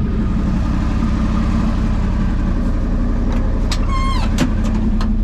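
1979 Ford F150's V8 engine idling steadily, which the owner suspects has a vacuum leak. A short pitched sound comes about four seconds in.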